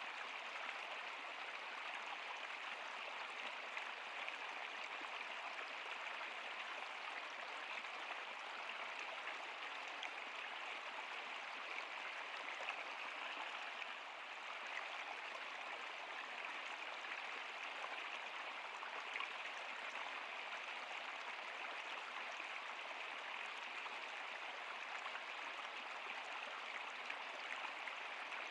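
Running water of a stream flowing steadily, an even hiss of water with no music or voices over it.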